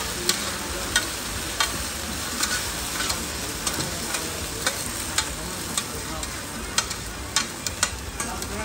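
Cubes of chai tow kway (radish and rice-flour cake) sizzling in oil on a large flat pan, with irregular sharp clicks and scrapes of a metal spatula and tongs turning them, roughly one or two a second.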